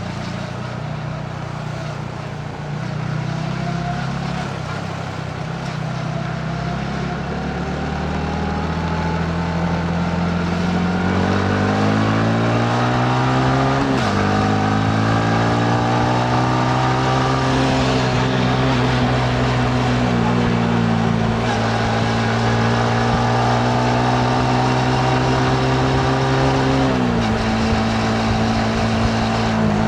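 Yamaha MT-15's single-cylinder engine pulling under acceleration: the revs climb steadily, fall sharply at a gear change about halfway through, then hold fairly steady, with another drop near the end. Wind and road noise run underneath.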